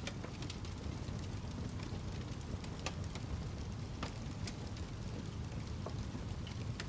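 Wood fire crackling: a steady low rush with scattered sharp pops and snaps.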